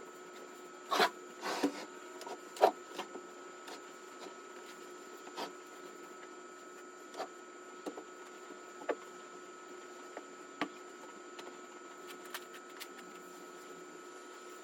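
A steady hum with scattered knocks and clicks over it, several in quick succession in the first three seconds, then sparser and fainter.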